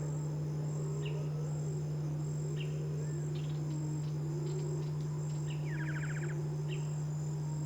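Outdoor field sound: insects chirring in an even high pulse over a steady low hum, with scattered short bird calls and one rapid rattling bird trill a little over halfway through.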